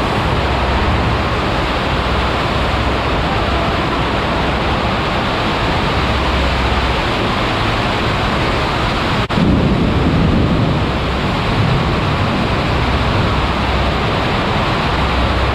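Heavy rain from a storm drumming steadily on a metal shop building's roof, a dense even hiss. A deeper rumble swells for a second or so about nine seconds in.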